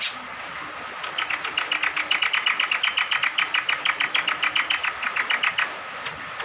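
Cucak kombok (kecial kombok) honeyeater singing a fast chattering series of short notes, about nine a second for some four and a half seconds, over a steady hiss of falling rain.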